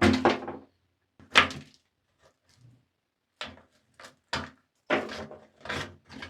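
Short knocks and clatters of small hard parts being handled, one at a time with silent gaps between them, a burst of several coming close together near the end.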